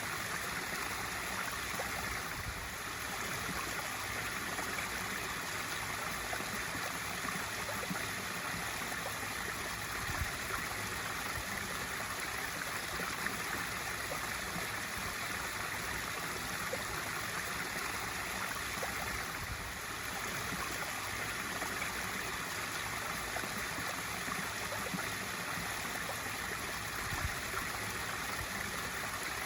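Swimming pool waterfall feature pouring steadily into the pool, a constant splashing rush of water.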